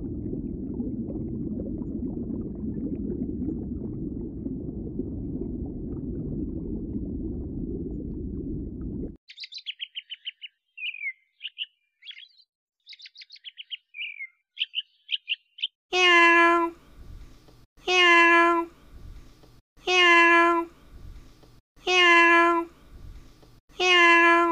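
A low, steady noise for about nine seconds, then an American robin's short chirps and trills, then a kitten meowing five times, about two seconds apart, each meow slightly falling in pitch.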